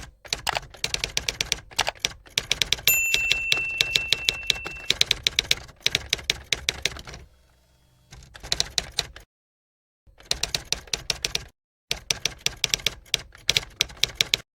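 Typewriter sound effect: rapid runs of key clacks in several bursts with brief silent gaps between them, and a bell-like ding held for about two seconds, about three seconds in.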